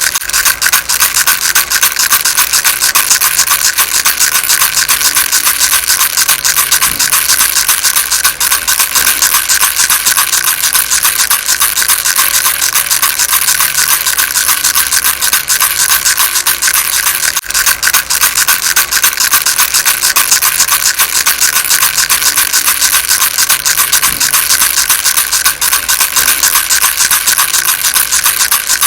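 Baby rattle shaken rapidly and continuously: a dense, steady, hissy rattle with no pauses.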